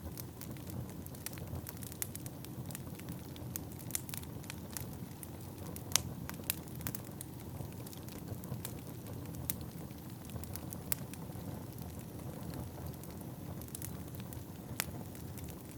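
Fire burning with a steady low rumble and scattered sharp crackles and pops, the loudest pop about six seconds in.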